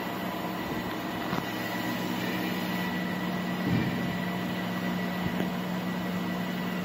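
Steady machinery hum with a constant low tone, broken by a couple of faint knocks.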